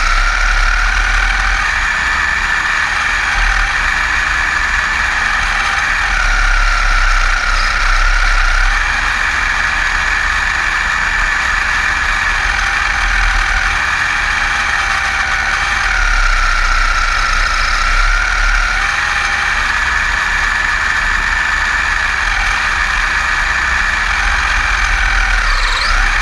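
Electric motor and gear whine of a Kyosho Blizzard RC tracked snow vehicle converted from nitro to electric, running through deep snow. It is a steady high whine whose pitch steps up and down several times as the speed changes.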